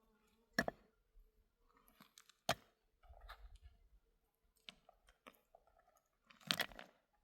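A few separate sharp knocks and clicks with faint crunching between them; the loudest knock comes near the end.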